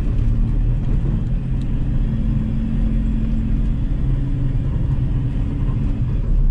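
Volkswagen Polo TDi turbodiesel engine running steadily under way, with road noise, heard from inside the cabin.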